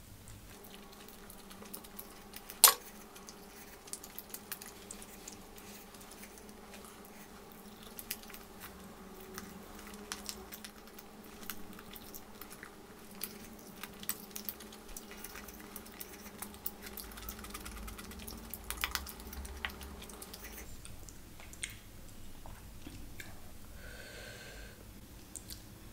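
Close-miked chewing and biting of sauce-coated Schezwan chicken lollipop, with many small wet mouth clicks and smacks, and one sharp, loud click about three seconds in.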